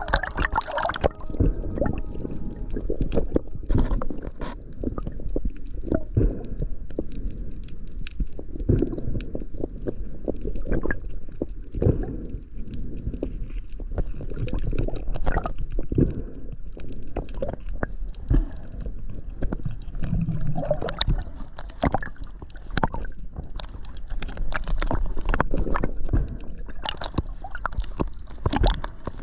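Water sloshing and gurgling, with many irregular small clicks and knocks.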